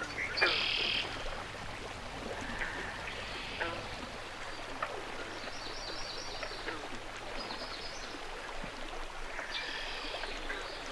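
Birds singing in short, high trilled phrases every few seconds over a faint, steady outdoor background.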